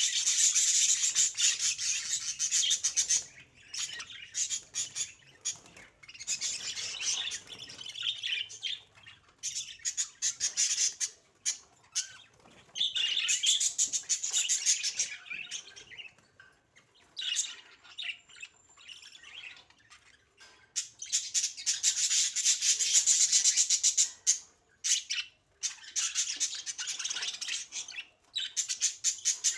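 Budgerigars chattering and warbling in fast, busy bouts of a few seconds each, with short quieter gaps between.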